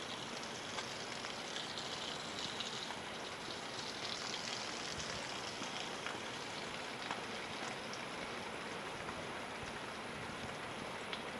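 Steady rush of water, with a few faint clicks over it.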